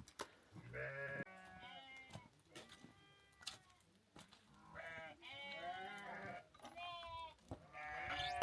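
Sheep bleating, several animals calling over one another in a string of wavering cries, thickest in the second half, with a few sharp knocks between calls.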